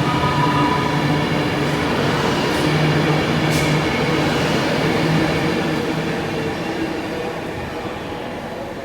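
A train running past on the line, with a steady mechanical hum and rail noise that fades gradually over the second half as it moves away.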